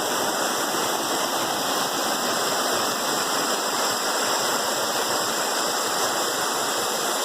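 Waterfall rushing steadily over rocks, a constant full roar of falling water with no change in level.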